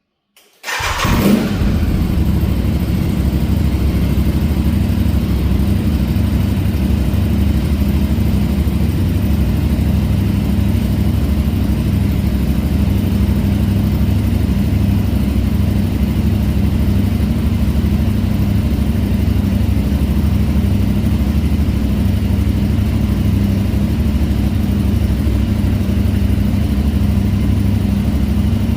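Aprilia Tuareg 660's parallel-twin engine starting about a second in with a brief flare, then idling steadily through a Zard de-cat pipe and slip-on exhaust.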